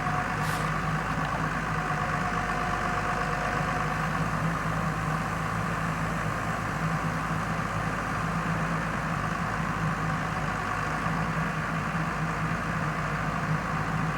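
The diesel engine of a forestry forwarder running steadily at a constant low speed, a continuous even drone with no revving. A faint steady whine sounds over it for the first few seconds.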